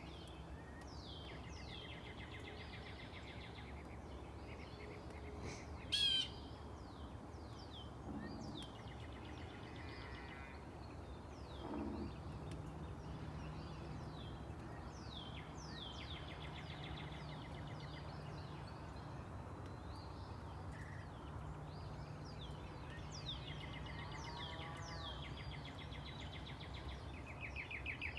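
Wild birds singing, a song of quick falling high notes repeated again and again, over a steady low background rumble. A single louder, sharper call comes about six seconds in.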